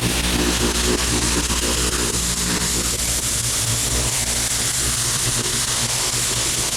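An engine running steadily under a constant rushing hiss.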